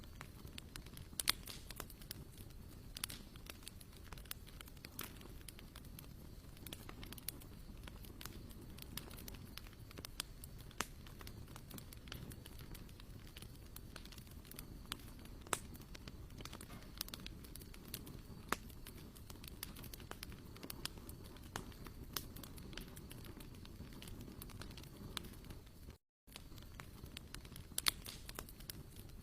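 Wood campfire crackling, with scattered sharp pops and snaps over a low steady rumble; the sound drops out for a moment near the end.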